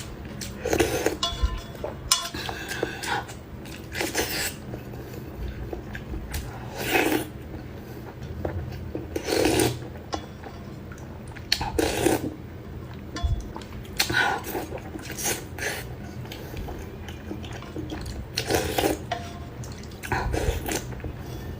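A person eating noodle soup, with short slurps and mouth sounds every two to three seconds. There are light clinks of utensils against the bowl, mostly near the start.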